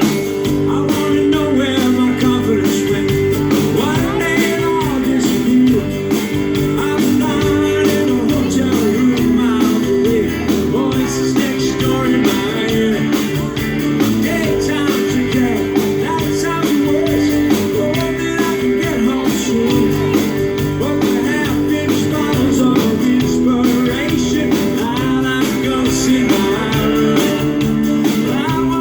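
Live rock-and-roll music with guitars and a singing voice, played steadily throughout.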